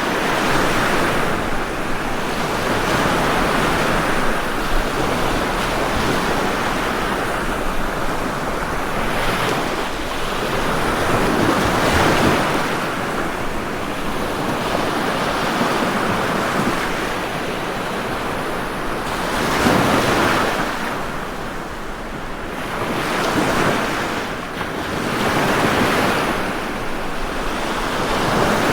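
Ocean waves breaking and washing on a shore, the surf swelling and ebbing every few seconds, with some wind.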